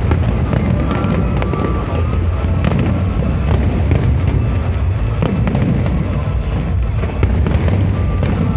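Fireworks display going off without pause: a dense run of bangs and crackles over a constant low booming rumble.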